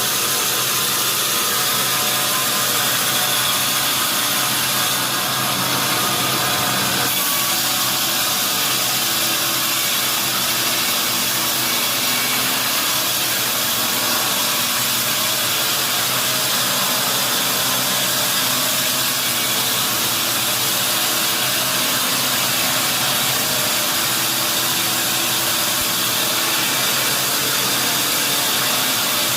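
Sawmill machinery running steadily, with a slight change in its sound about seven seconds in.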